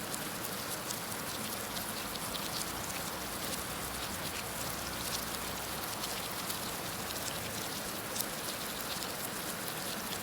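Heavy rain falling steadily, an even hiss with many distinct drops ticking on a surface close by.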